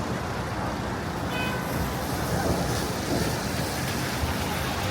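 City street traffic: a steady rumble of passing vehicles, with a brief high tone about a second in.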